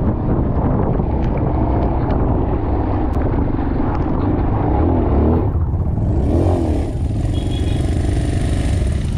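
Kawasaki KLX230 single-cylinder dirt bike engine running on a muddy trail ride, its revs rising and falling twice in the middle. A steady hiss joins in the second half.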